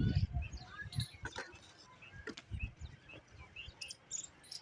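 Small birds chirping in short, scattered calls, with a few sharp taps in the first half.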